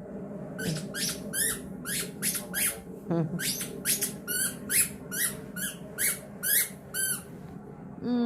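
Dog chewing a squeaky rubber toy duck, its squeaker giving a rapid series of short high squeaks, about two or three a second.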